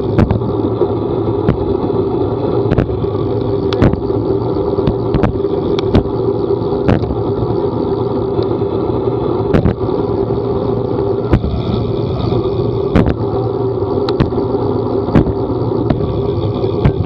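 A vehicle running steadily while on the move, with sharp clicks roughly every second.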